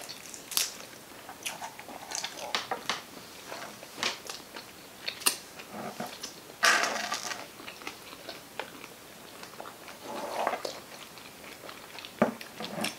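Close-miked chewing and biting of sushi: a scatter of short wet mouth clicks and smacks, with a louder stretch of mouth sound about seven seconds in.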